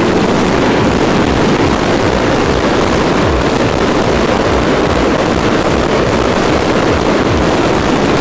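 A loud, unbroken crackle of fireworks and firecrackers going off together in a dense barrage.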